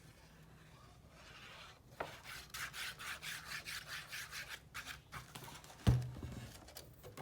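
Quick back-and-forth rubbing on cardstock, about five strokes a second for several seconds, as glued paper pieces are pressed together, followed by a single loud thump just before the end.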